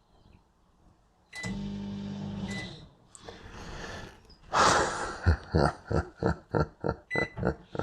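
Microwave oven running briefly with a steady mains hum, a short beep at its start and end. Then comes a quick run of even clicks, about five a second, with another short beep near the end.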